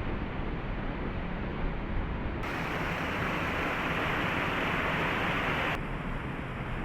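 Waterfall rushing as a steady, even noise. It turns abruptly brighter and hissier about two and a half seconds in, and drops back just before the end.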